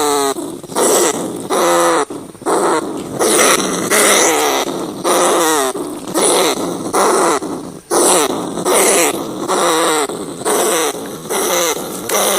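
Rats calling: a loud run of harsh, wavering squeals and growls, about one a second, with no break.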